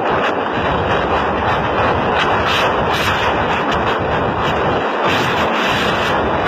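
Loud, steady rush of wind buffeting and road noise from a vehicle moving at speed, rough enough to overload the microphone.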